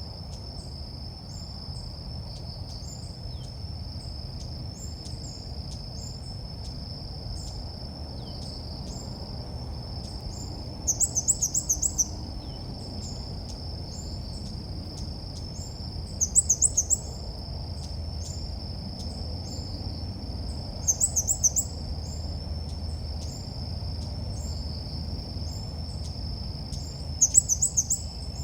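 Bird lure call of the ốc mít (Vietnamese bird name): a loud burst of rapid high chirps, about a second long, comes four times, roughly every five seconds. Beneath it run a steady high insect-like trill and soft chirps repeating about once a second.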